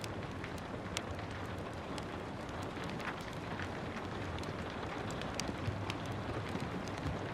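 Steady hiss of gentle rain with the irregular crackles and pops of a wood fire burning in a fireplace.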